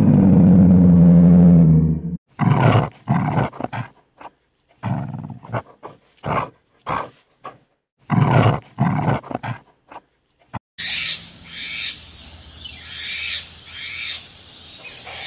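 A lion gives a loud roar for about two seconds. Then come short repeated growls and yaps from puppies play-fighting, and from about eleven seconds in a black-and-white ruffed lemur calls in harsh pulsing bursts.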